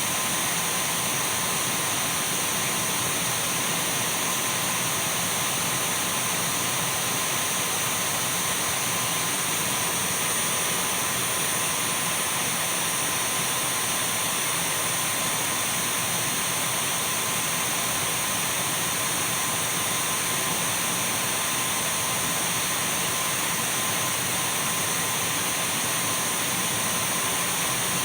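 Dyson V12 cordless stick vacuum running steadily: an even rush of air noise with thin, steady high whines from the motor, unchanging throughout.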